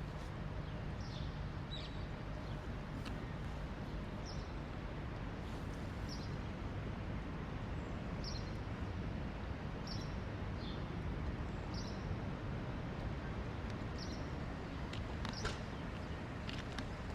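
A small bird chirping, short high chirps repeated about once every second or two, over a steady low rumble of city traffic.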